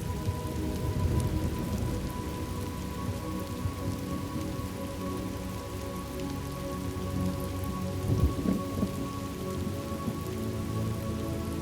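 Thunderstorm ambience: steady rain falling, with low rolls of thunder swelling about a second in and again about eight seconds in. Soft, sustained background music notes hold underneath.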